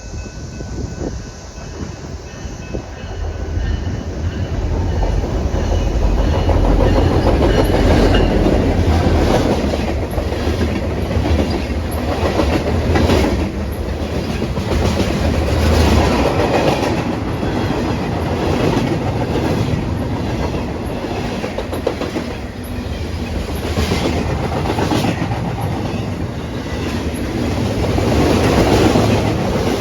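A train passing close by: a heavy locomotive rumble for about the first half, then the cars rolling past with a steady clickety-clack of wheels over the rail joints.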